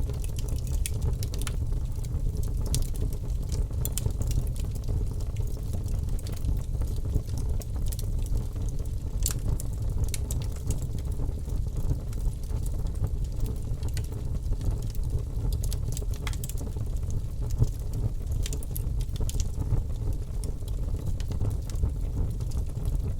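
Logs burning in a fireplace, crackling with scattered sharp pops over a steady low rumble of the fire.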